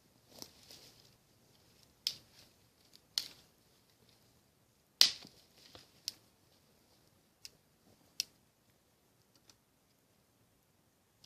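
Irregular sharp clicks and snaps, about seven over several seconds with quiet gaps between them, the loudest about five seconds in.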